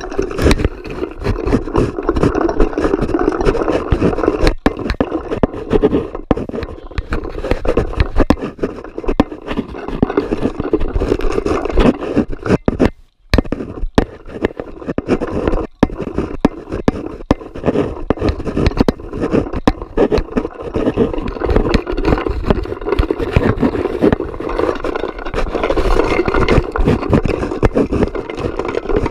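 Loud, continuous scraping and rubbing with many small knocks, broken off for a moment about 13 seconds in.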